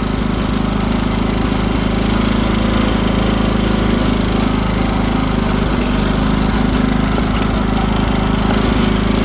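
Sears ST12 garden tractor's engine running steadily.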